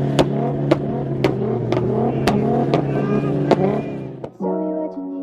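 A car engine held at steady revs with sharp bangs about twice a second, the pops of a two-step launch limiter, mixed with music. A little after four seconds it cuts off, leaving soft, slow music.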